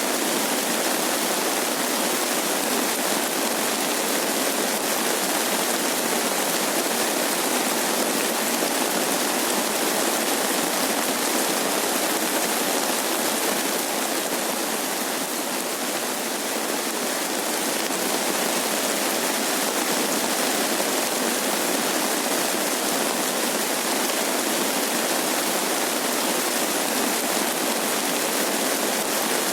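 Steady rain falling as an even, dense hiss, easing slightly about halfway through.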